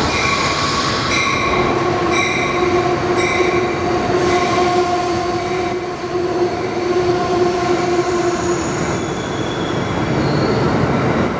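Amtrak passenger train of stainless-steel cars rolling along the platform track, a steady rumble with a high wheel squeal held for several seconds. In the first few seconds a short ring repeats about once a second.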